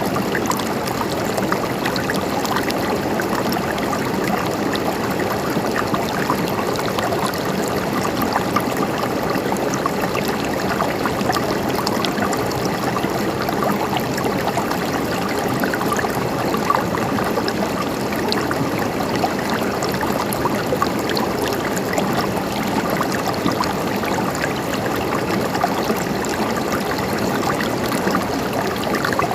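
Running water flowing and trickling steadily, with many small splashes and gurgles throughout.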